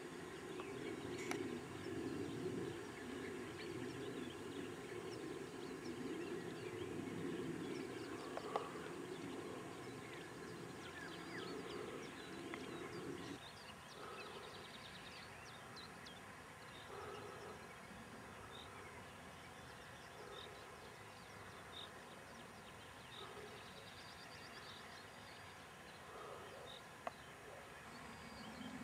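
Faint, short bird chirps scattered over a low steady background noise; the low noise drops away abruptly about halfway through, leaving quieter chirping.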